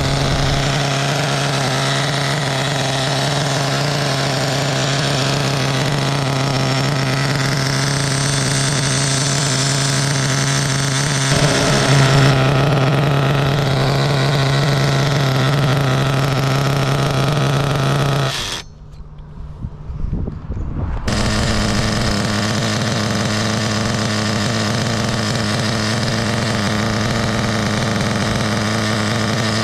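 Small SH .21 nitro engine of an RC buggy running steadily during its break-in. About two-thirds of the way through the sound drops away for two seconds, then the engine runs on at a slightly lower, steady pitch.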